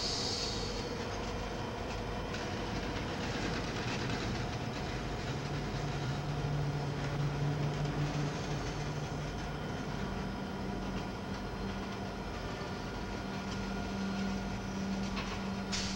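Freight train passing: diesel locomotives running as they pull by, their engine hum shifting in pitch partway through, with steel wheels rolling on the rails as covered hopper cars follow. A brief high hiss sounds right at the start and again near the end.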